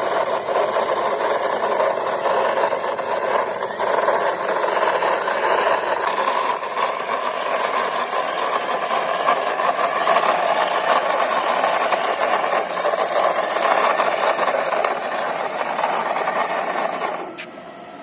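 Toy police car pushed along by hand, its plastic wheels and body giving a steady rattling rumble that stops abruptly near the end.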